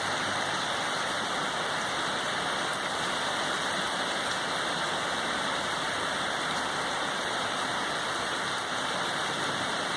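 Rain falling steadily: an even, unbroken hiss with a few faint drop ticks.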